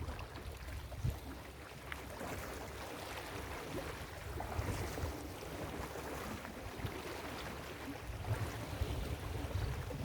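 Ocean surf washing onto a beach in a steady rush. Low gusts of wind rumble on the microphone about a second in and again near the end.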